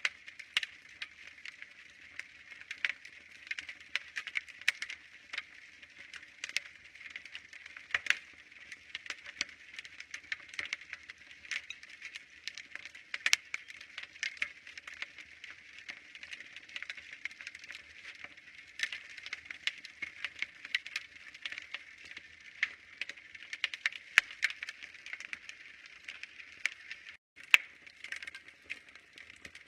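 Wood fire crackling in a fireplace: a steady soft hiss with irregular sharp pops and snaps, a few of them much louder than the rest.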